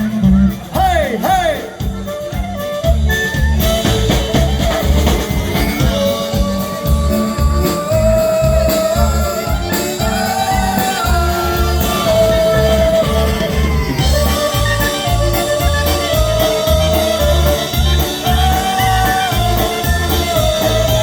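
Live brass polka band playing: horns carry a held melody line over a steady pulsing bass-and-drum beat.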